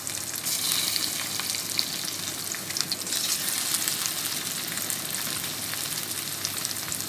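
Slices of steamed egg frying in hot oil in a frying pan: a steady sizzle with scattered small crackles.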